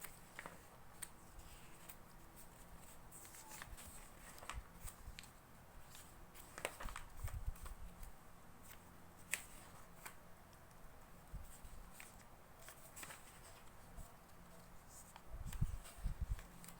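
Magazine pages being turned by hand: faint, irregular paper flicks and rustles, with a few louder dull thumps near the end.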